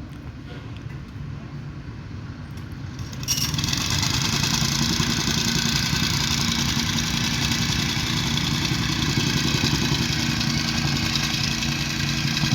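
An engine running steadily, faint at first and then much louder and fuller from about three seconds in.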